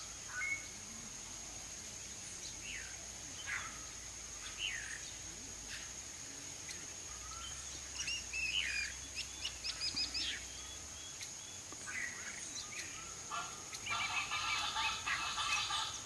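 Birds calling in short, scattered chirps over a steady high-pitched hum, with a quick run of chirps about halfway through. About two seconds before the end, a denser layer of sustained tones comes in.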